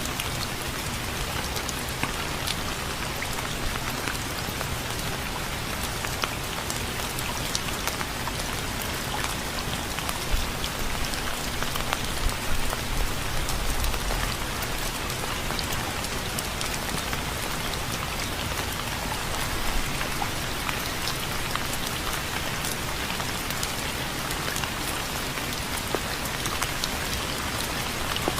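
Steady rain falling, a constant hiss with many single drops pattering sharply throughout.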